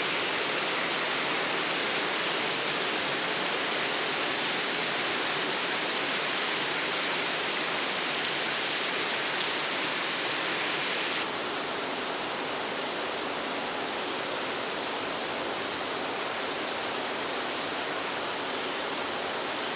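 Heavy rain falling in a steady downpour, a dense even hiss that drops slightly in level about halfway through.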